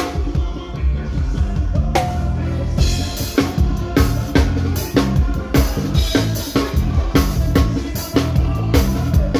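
Live band playing an instrumental passage: a drum kit keeps a steady beat of kick and snare over a strong bass line, with a melody instrument above.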